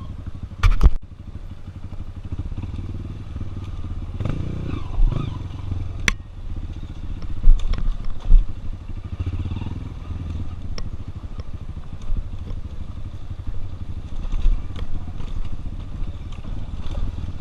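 Single-cylinder dirt-bike engines running on a hill climb, with the revs rising and falling and several sharp knocks. The Honda Tornado's exhaust crackles, with a distinct beat of its own.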